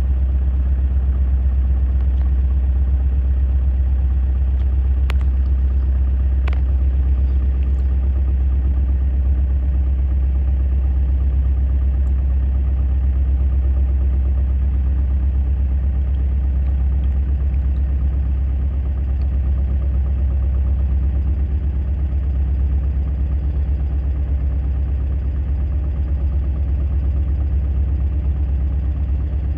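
Sailing yacht's engine running steadily as the boat motors along, a deep, even drone. Two short sharp clicks sound about five and six and a half seconds in.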